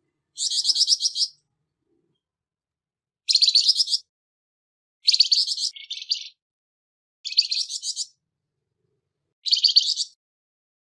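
Flamboyan bird giving its harsh, rough call: five short rattling bursts of rapid high-pitched notes, each about a second long, separated by silent gaps of one to two seconds.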